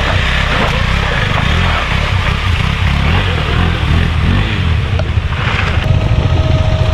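KTM 390 Adventure's single-cylinder engine running steadily as the motorcycle is ridden. A thin steady tone joins about six seconds in.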